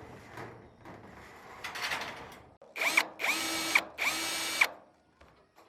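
A handheld power drill runs in three short trigger bursts, the motor spinning up and winding down each time. Rough scraping and handling noise comes before them.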